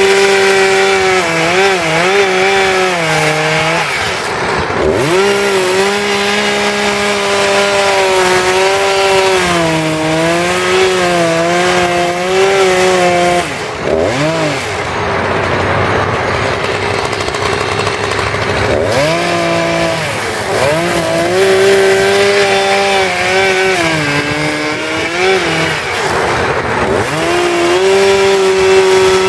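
Two-stroke chainsaw running at high revs while carving wood, its pitch sagging and recovering again and again under the load of the cut, with several deeper dips.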